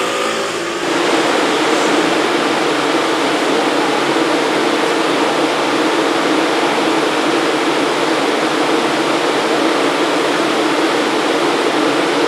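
Electric passenger train running along the platform: a loud, steady rush of wheel and car noise that swells in about a second in, replacing a fading motor whine.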